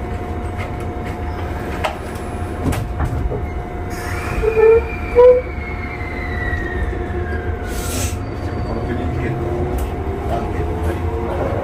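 Local electric train pulling out of a station, heard from inside the car: a steady low rumble, two short loud tones about four and a half seconds in, then a whine that keeps rising in pitch as the train gathers speed.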